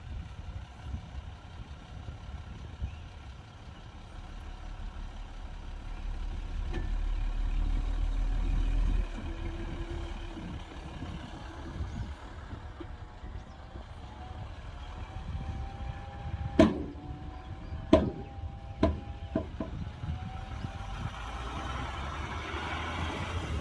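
Heavy diesel earthmoving machinery running with a low rumble that swells louder for a few seconds, then about two-thirds of the way through a run of four sharp, ringing metal bangs in quick succession.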